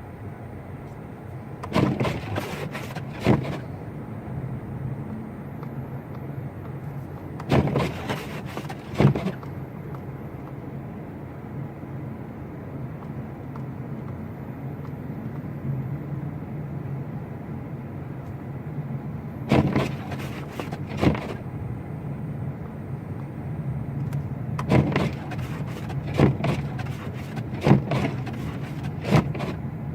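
Car driving through deep snow: a steady low engine and road hum, broken four times by clusters of sharp knocks and thumps.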